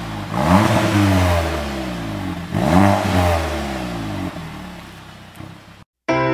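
Skoda Octavia RS engine revved twice through an APR cat-back exhaust, each sharp rise in pitch falling slowly back and fading out. The sound cuts off just before the end.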